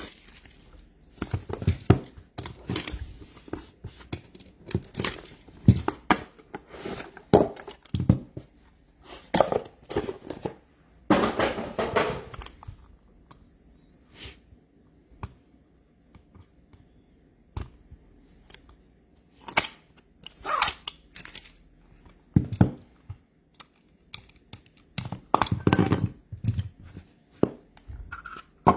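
Packaging being opened and handled by hand: irregular tearing and crinkling of wrap and cardboard, with scattered knocks and clicks of boxes being set down.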